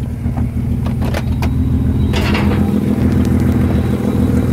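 1984 Mazda RX-7's two-rotor rotary engine running at a steady pitch while the car is overheating and leaking coolant, heard from inside the cabin. A few short clicks about a second in and a brief rush of noise about two seconds in.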